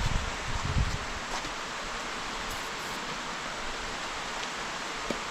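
Steady rush of running water at a dam, with a few low thumps on the microphone in the first second.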